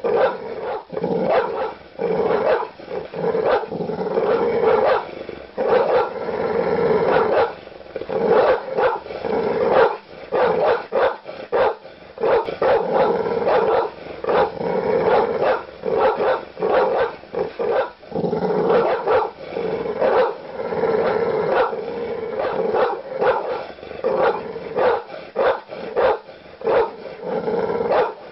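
Large dog barking aggressively in deep, loud, rapid barks, several a second with barely a pause, mixed with growling.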